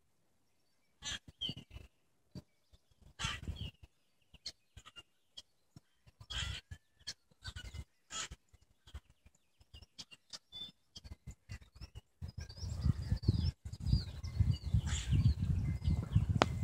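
Birds chirping and calling in trees, with short, high chirps and the odd gliding note, among scattered sharp clicks and knocks. About twelve seconds in, a low rumbling noise comes in under the calls.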